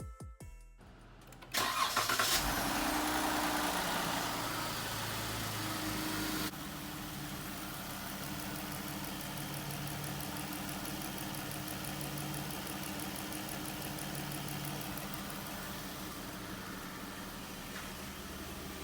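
A Dodge Durango's V6 engine starting about a second and a half in and running faster and louder at first. About five seconds later it drops to a quieter, steady idle.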